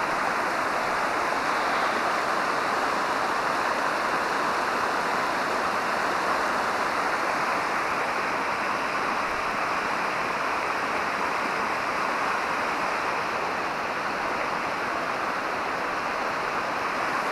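Mountain stream water rushing steadily over rocks, a continuous even noise with no breaks.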